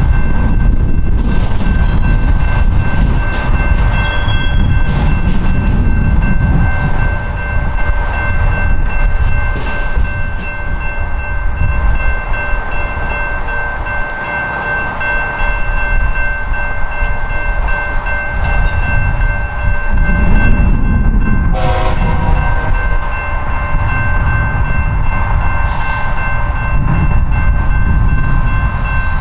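Freight train of autorack cars rolling past on the rails: a steady low rumble of wheels and cars, with several steady high tones over it. A short, louder pitched sound comes about two-thirds of the way through.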